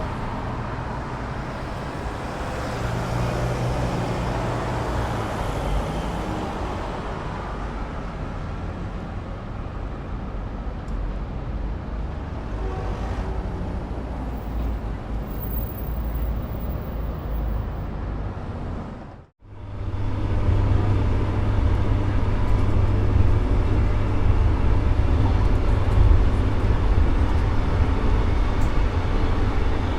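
Road traffic: vehicles passing with a steady rumble of engines and tyres, swelling about three to six seconds in. It drops out abruptly about two-thirds through, then returns as a louder, deeper, steady engine rumble.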